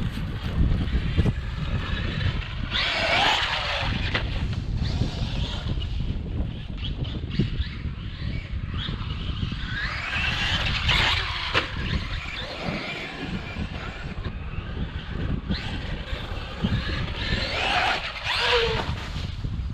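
Traxxas MAXX 1/10-scale 4s RC monster truck's electric motor whining up and down in pitch as the truck accelerates and slows, in three main bursts several seconds apart, over a steady low rumble.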